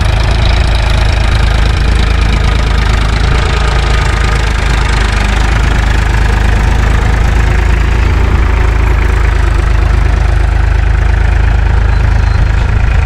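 Farm tractor's diesel engine running loud and steady, heard close up.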